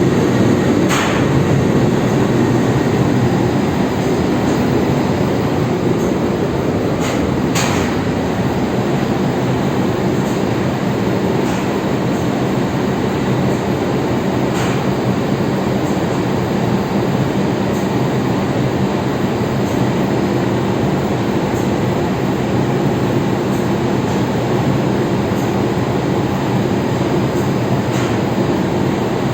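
Loud, steady din of a tanker's engine room: running engines and machinery with a constant low hum, and a few sharp clicks.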